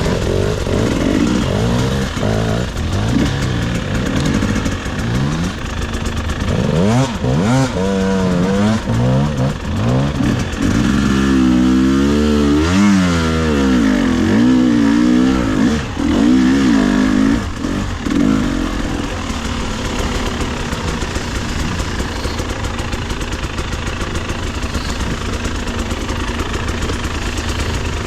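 Two-stroke 300 cc enduro dirt bike engine revving, its pitch rising and falling again and again through the middle, then running more steadily near the end.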